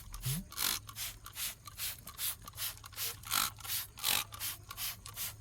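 Trigger spray bottle of iron remover squeezed again and again in quick short squirts, about four or five hissing strokes a second.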